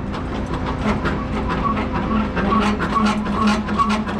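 A heavy truck running, with rattling metallic clicks and a regular pulsing beep about twice a second that starts a little way in.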